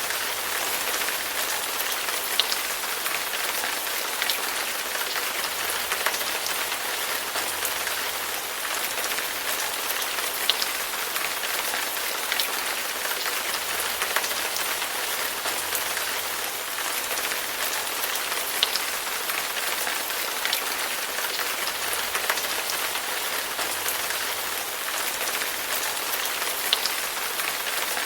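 Steady rain falling on a surface, an even hiss with scattered louder individual drops ticking every second or two.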